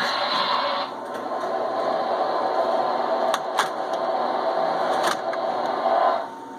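Model train running on the track: a steady mechanical whir with a few sharp clicks, which stops abruptly about six seconds in.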